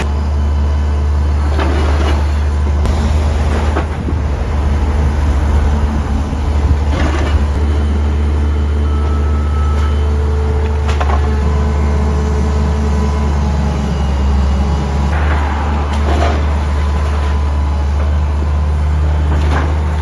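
Heavy machine engine running steadily with a deep rumble, with occasional knocks and clunks a few seconds apart.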